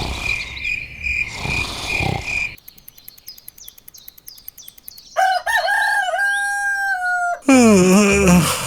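A rooster crowing: one long call held for about two seconds, starting a little past halfway. Before it, a high tone pulses about three times a second, and near the end a louder sound falls steeply in pitch.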